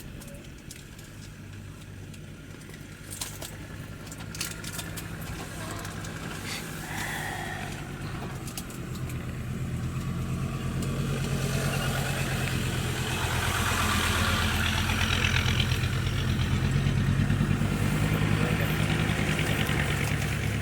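A vehicle's engine running steadily with a low hum, growing louder from about 8 to 12 seconds in and then holding.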